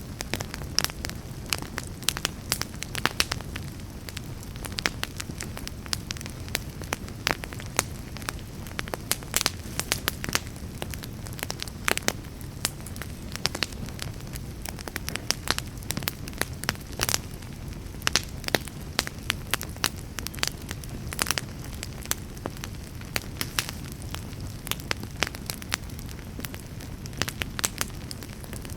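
Wood fire burning in a fireplace: a steady low rumble of flames with sharp, irregular crackles and pops, several a second.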